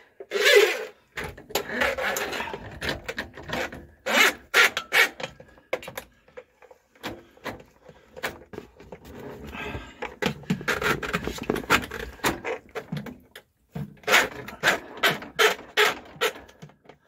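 Pistol-grip drain snake being worked down a drain pipe: irregular clicks and rattles with stretches of scraping as the coiled cable is fed out of its drum and turned in the pipe.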